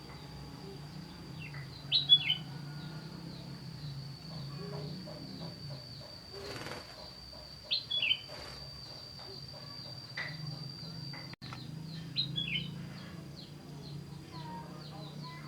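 Small aviary birds chirping in short clusters of quick falling notes, roughly every five seconds, with a brief flutter of wings about six seconds in. A steady high-pitched whine and a low hum run underneath.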